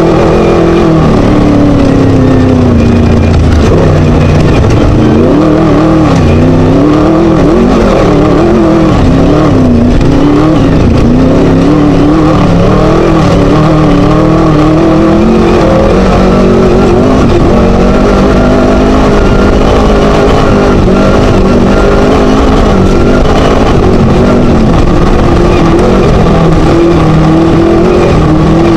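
Class 1 desert race buggy's Scat engine running hard and loud, revs rising and falling every second or two as it drives the course, over a steady noisy rush.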